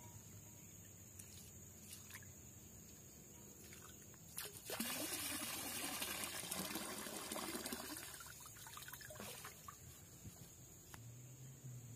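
Water pouring or trickling for about three seconds, starting about five seconds in, over a steady high-pitched whine.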